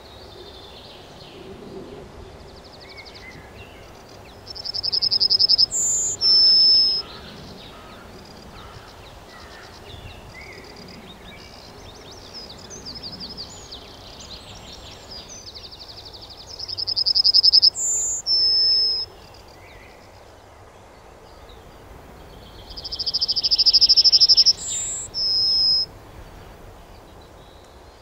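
A small bird singing a loud phrase three times. Each phrase is a fast trill that swells in loudness and ends in two clear, higher notes. Softer chirps and twitters come between the phrases.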